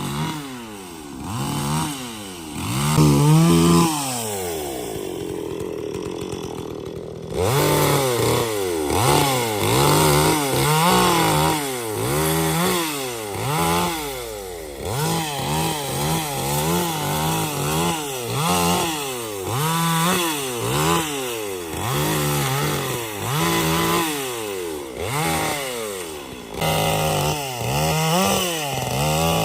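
Petrol chainsaw cutting trees, its two-stroke engine revving up and dropping back over and over, about once a second. A few seconds in it holds a steadier lower note for a few seconds, then jumps straight back to the repeated revving.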